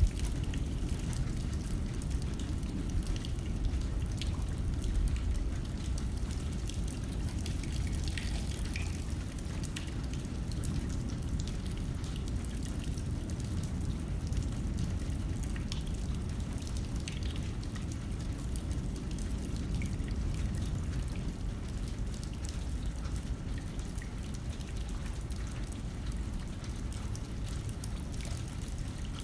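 Rain hitting a window pane, many scattered drop ticks over a steady hiss, with wind blowing as a constant low rumble underneath.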